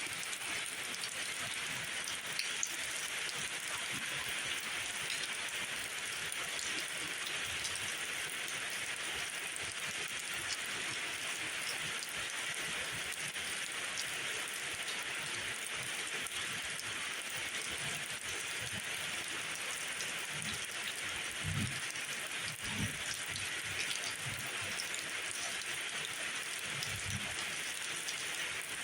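Steady rain falling as an even hiss, with scattered sharper drop ticks and a few low thuds about two-thirds of the way through and again near the end.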